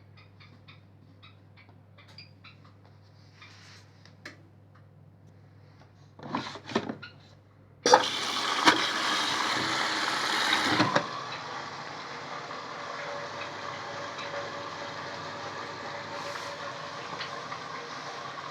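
Bosch Maxx 5 front-loading washing machine filling at the start of a wash: a few light clicks, then about eight seconds in the water inlet valve opens and water rushes in loudly. After about three seconds the flow settles into a steadier, quieter rush.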